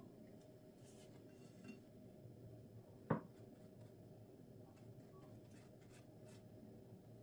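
Near silence: quiet room tone with a few faint ticks and one short, sharp knock about three seconds in.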